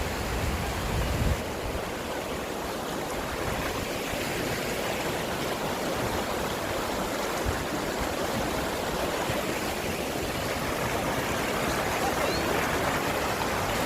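Fast-flowing mountain stream rushing steadily, with a brief low rumble in the first second or so.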